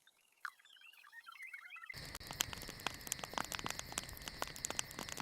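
Faint night ambience: soft, thin chirps. About two seconds in, a dense, irregular crackling patter of small clicks sets in suddenly over a thin steady hiss.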